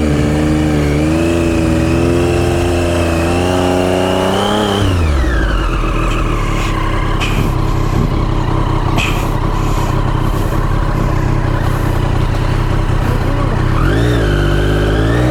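Motorcycle engine held at high revs, wavering as the throttle is worked, then the revs drop steeply about four and a half seconds in and it runs low for most of the rest, rising again near the end.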